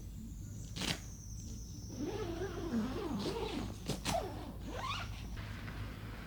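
A dog whining, its pitch wavering up and down for a few seconds, with a couple of sharp clicks or knocks about a second in and again near four seconds.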